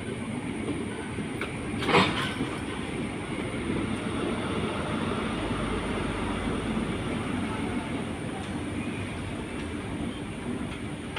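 Express passenger train running on the track, a steady rumble of wheels on rails, with one sharp, loud metallic clank about two seconds in.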